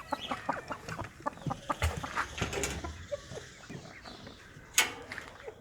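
Chickens clucking, mixed with many short clicks and taps, and one sharp knock near the end.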